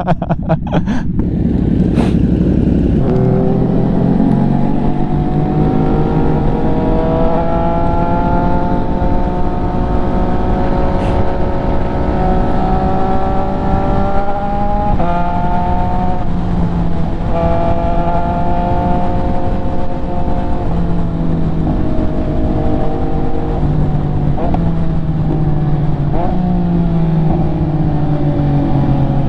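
MV Agusta F3 three-cylinder sport bike engine running under way, its pitch climbing slowly as the bike gains speed, then dropping and climbing again several times in the second half with changes of throttle or gear.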